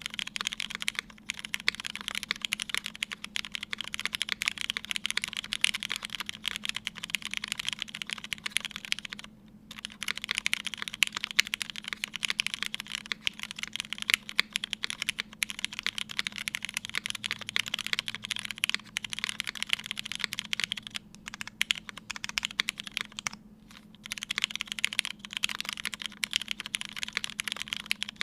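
Continuous fast typing on a 60% mechanical keyboard with lubed Hyperglide Black linear switches in an aluminium plate, under GMK cherry-profile keycaps: a dense stream of key clacks, pausing briefly twice.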